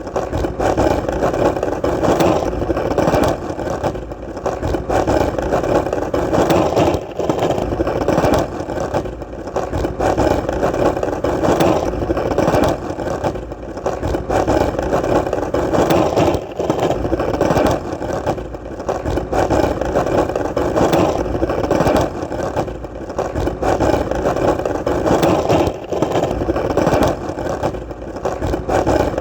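Skateboard wheels rolling on hard ground: a continuous rumbling roll with brief dips in loudness every few seconds.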